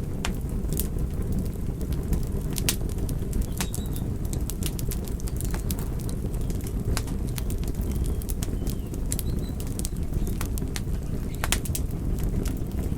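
Fire burning: a steady low rumble of flame with frequent, irregular sharp crackles and pops.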